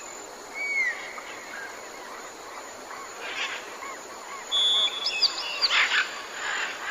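A chorus of jungle birds: thin whistled notes that rise and fall, mixed with several loud, harsh calls, over a steady background hiss.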